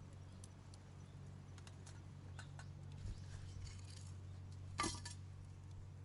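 Scattered light metallic clicks and clinks, with one louder clack a little before five seconds, over a steady low hum.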